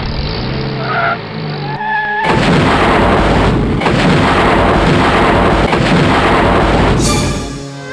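Music with a few pitched tones, then from about two seconds in a loud, dense rumbling noise that lasts about five seconds before stopping near the end.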